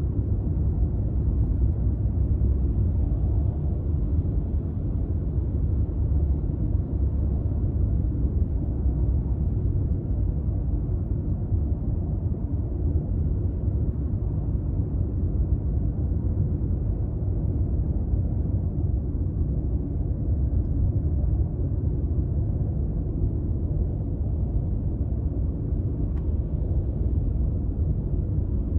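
A Toyota Crown Athlete (200-series, 2.5 L V6) driving along at a steady pace. Its engine and tyre road noise make an even, low rumble that doesn't rise or fall.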